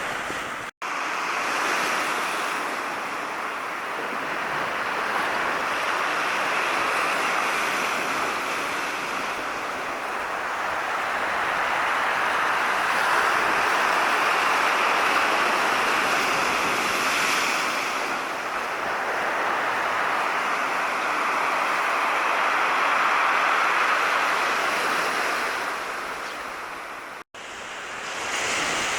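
Black Sea surf breaking and washing on the shore, a steady rushing wash that swells and eases slowly every several seconds. The sound drops out for an instant twice, about a second in and near the end.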